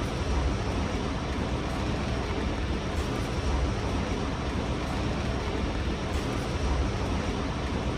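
Strong storm winds of 60 to 70 mph gusts blowing steadily, with a heavy low rumble from the wind buffeting the microphone.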